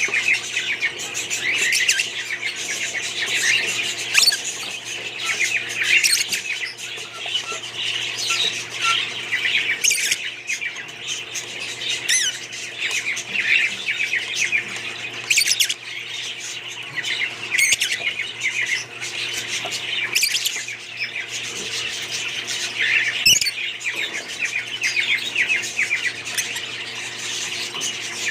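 A group of budgerigars chattering and chirping without pause, with sharper squawks every few seconds, over a faint steady hum.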